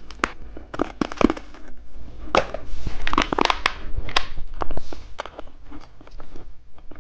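Hard candy lollipop being bitten and crunched close to the microphone: irregular sharp cracks and crunches, densest a few seconds in.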